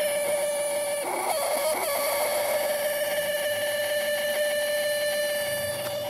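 Steady high-pitched whine with overtones from inside a 1990 Mercedes-Benz W124, holding one pitch with a slight waver. It is the strange noise the owner is tracking down, which is not coming from the blower fan or the removed loudspeaker.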